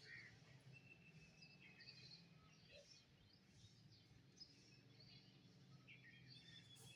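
Faint birdsong: several birds chirping and whistling, with a couple of longer thin whistles, over a steady low hum.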